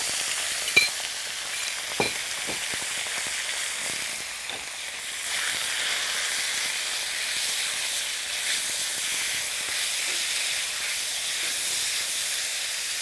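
Raw chicken breast strips sizzling in hot oil in a wok as they are stirred with a wooden spatula, a steady frying hiss. Two sharp knocks against the wok come in the first two seconds.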